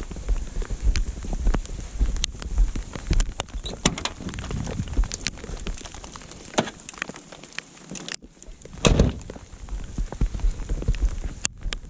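Campfire crackling, with frequent sharp pops and snaps at irregular intervals. Wind buffets the microphone with a low rumble that drops away briefly about two-thirds of the way through.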